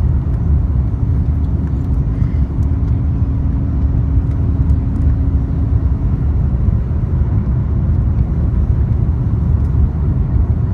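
Steady low rumble of engine and airflow noise inside the cabin of an Airbus A350-900 in flight, powered by Rolls-Royce Trent XWB engines. A faint steady hum runs over it and stops about six seconds in.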